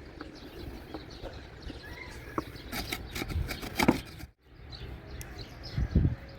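Outdoor ambience with faint bird chirps, broken by a cluster of sharp clicks and knocks about three to four seconds in and a couple of low thuds near the end.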